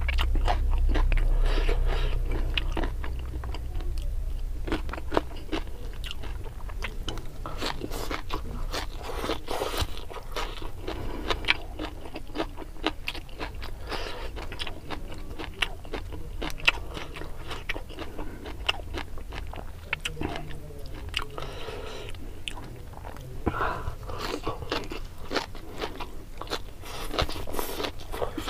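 Close-up chewing and crunching of raw vegetables and rice eaten by hand: many small crisp crunches and mouth clicks. A low rumble in the first couple of seconds.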